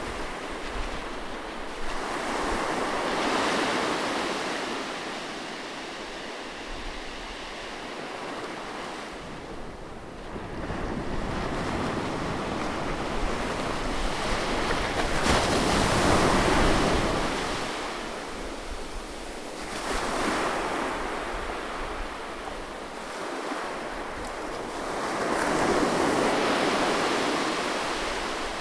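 Gentle sea waves breaking and washing up on a beach, about four slow surges of surf that swell and fade, the loudest a little past halfway.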